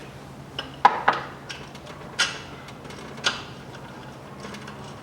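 Sharp metallic clinks and taps of a spanner, bolt and idler pulley being handled during assembly of an engine's accessory drive, about half a dozen irregular strikes with the loudest about a second in, over a faint steady hum.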